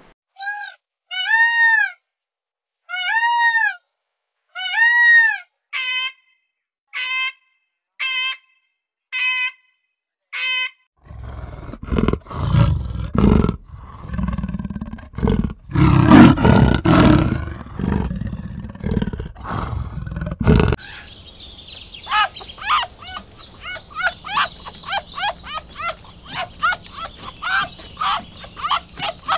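A series of clear, arching high calls, about one a second and getting shorter after about six seconds. Then, from about eleven seconds in, a big cat growling and roaring for about ten seconds. Near the end comes a fast run of short, high chattering calls.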